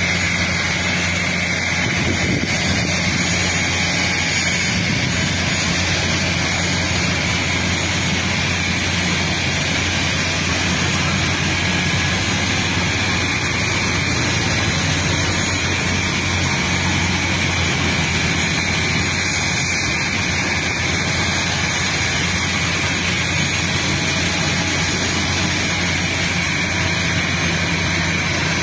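Steady, unvarying vehicle engine drone with a low hum and a constant higher whine.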